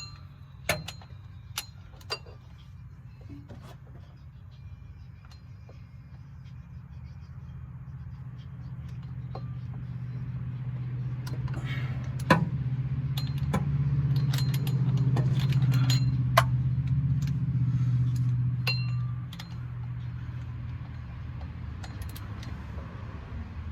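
Sharp metal clicks and clinks of hand tools as a torque wrench and ratchet are worked on flywheel bolts, a few scattered strikes. Underneath runs a steady low hum that swells through the middle and drops away about three-quarters of the way through.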